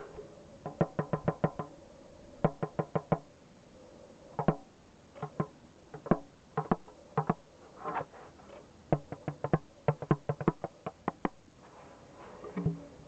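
Drumming: quick runs of sharp strikes separated by short pauses, some strikes with a short pitched ring.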